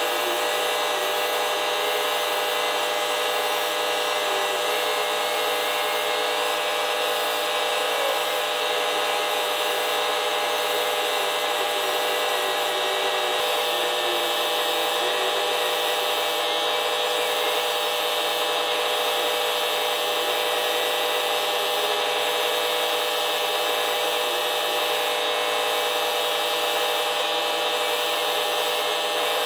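Electric sander running steadily with 1000-grit paper against a camper's aluminum skin, a constant whine of several steady tones over a sanding hiss.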